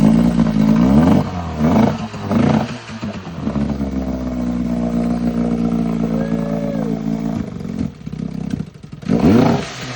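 Rebuilt Evinrude outboard motor running on its first start after the rebuild. It is revved up in several swells, runs steadier through the middle, dips about eight seconds in, then revs up again near the end.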